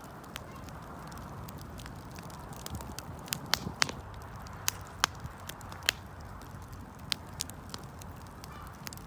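Wood fire burning, a steady low rush with scattered sharp pops and crackles from the burning wood, a few louder ones near the middle.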